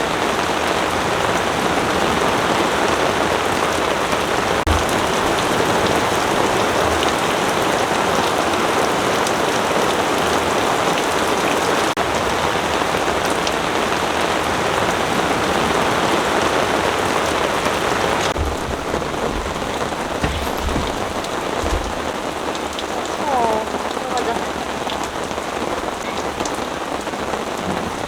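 Heavy rain pouring down in a dense, steady hiss, with a few dull low thumps. About two-thirds of the way through, the rain abruptly turns duller and a little quieter.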